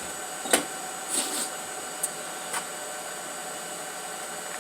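Steady background hiss with a few faint steady tones, broken by a handful of light clicks and knocks; the sharpest click comes about half a second in.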